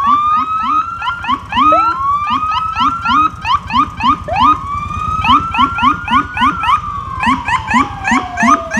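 Several fire truck sirens sounding at once. A wailing siren rises and holds, dips and rises again twice, then winds slowly down in the second half, over a rapid yelping siren of short rising whoops several times a second.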